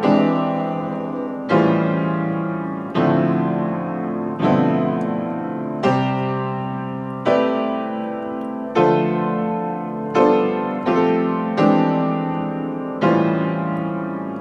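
Electric keyboard in a piano voice playing a highlife chord progression in C (1, 6, 2, 5), with a block chord struck roughly every second and a half and left to ring and fade.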